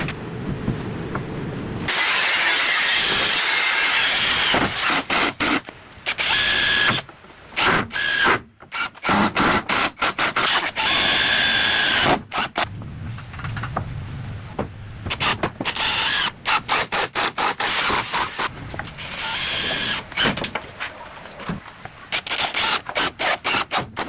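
Power tool running in bursts with a steady whine: one long run in the first half, then shorter runs broken by sharp knocks and clatter.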